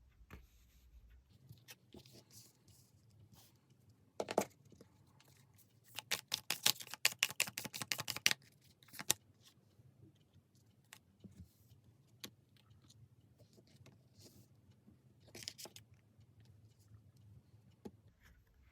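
Tarot cards being handled and shuffled: scattered soft rustles and slaps, with a run of rapid clicking flicks lasting about two seconds near the middle.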